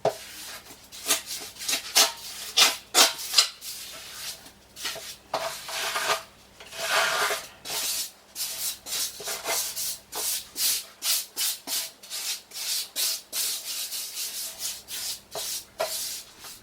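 A hand tool, a trowel or float, scraping and rubbing across mortar in quick repeated strokes, roughly one to two a second, as a shower-pan mortar bed is worked flat.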